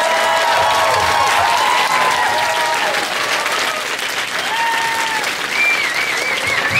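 A crowd applauding, the clapping dense and steady, with whoops rising and falling over it and a wavering call near the end.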